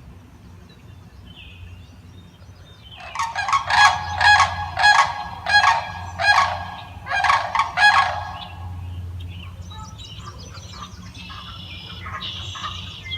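Sandhill cranes calling: a run of loud, rolling calls, about eight in five seconds, starting about three seconds in, then quieter, scattered calls near the end.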